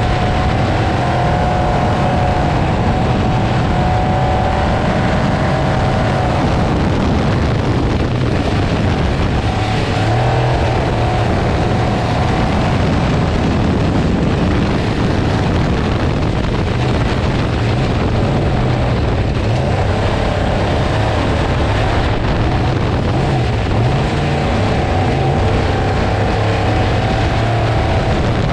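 Off-road race truck engine running hard at speed, its pitch rising and falling a little with the throttle, over a steady rush of wind and terrain noise.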